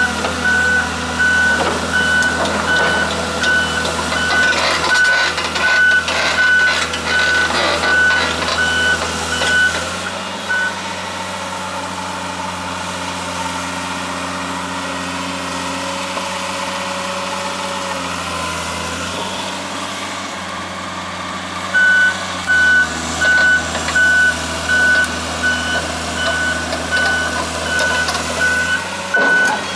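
Komatsu PC200LC-6 crawler excavator's travel alarm beeping about once a second over its running diesel engine. The alarm stops about a third of the way through, leaving only the engine, and starts again past two-thirds.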